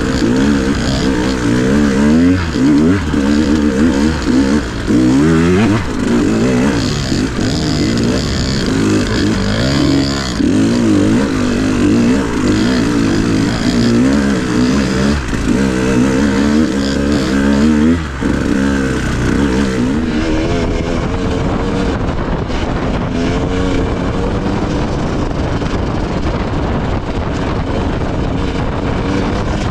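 Dirt bike engine being ridden hard, revving up and down with the pitch rising and falling every second or two. About two-thirds of the way through the sound changes to a steadier, duller engine note.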